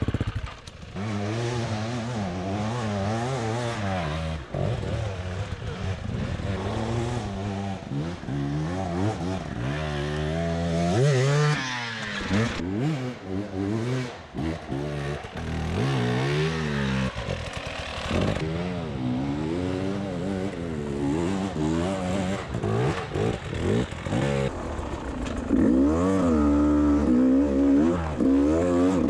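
Beta 300 RR two-stroke enduro bike engine being ridden, its pitch rising and falling every second or two as the throttle is opened and closed, getting louder near the end.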